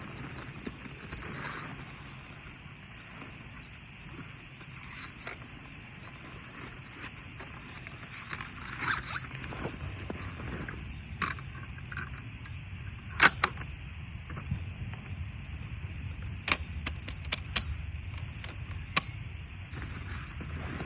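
Insects, crickets by the sound, chirring steadily in a high band, with scattered sharp clicks and knocks from camp handling; the loudest is a double knock about 13 seconds in.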